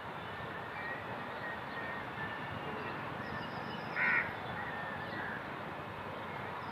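A short, fairly loud bird call about four seconds in, with a few faint chirps over a steady background hiss.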